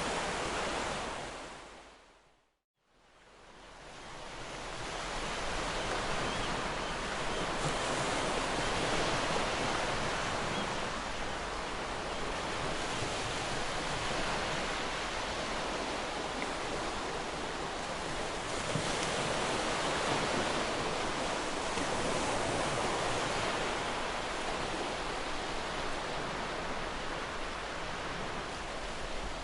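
Ocean surf: a steady wash of breaking waves with slow swells in loudness. About two seconds in it fades out to silence, then builds back up over the next few seconds.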